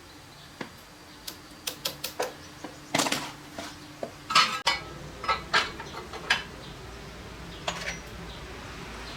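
Sharp metallic clinks and clatters, about a dozen in irregular succession, like hard metal pieces being handled and set down, with a low rumble slowly building behind them.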